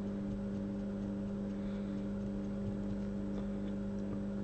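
Steady electrical hum from the microsoldering bench equipment, one low constant tone with fainter tones above it, one of which pulses on and off about twice a second, and a couple of faint ticks near the end.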